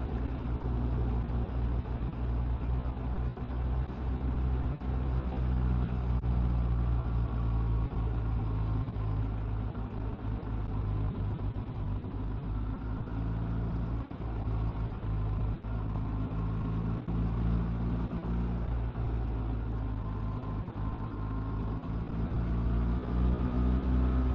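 Motorcycle riding at road speed: a steady low engine drone under wind and road noise, its pitch shifting slightly in places.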